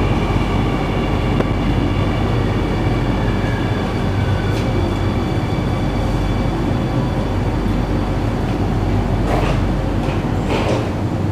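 Singapore MRT train running between stations, heard on board: a steady rumble with a low hum and a faint steady whine, and two short hissing rushes near the end as the low hum eases off.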